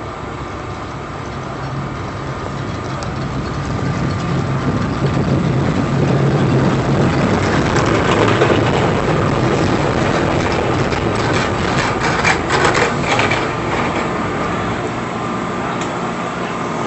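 Heavy truck engine running as the truck comes closer and passes, its low hum growing louder over about eight seconds and then easing off. From about eight seconds in there is rough scraping and crunching on top of it.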